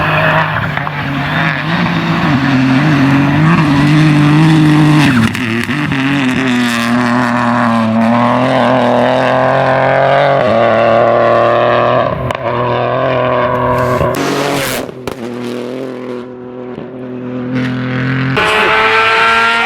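Rally car engines revving hard, rising and falling in pitch through gear changes, with several abrupt switches from one car's sound to another.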